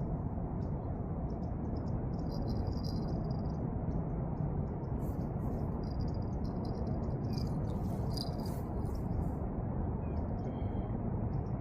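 Steady low outdoor rushing noise with scattered bursts of high-pitched chirping and short trills that come and go, loudest around the middle.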